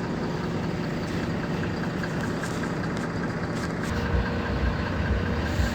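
City bus interior: the engine runs steadily with road rumble. From about two-thirds of the way in, low thumps come roughly three times a second.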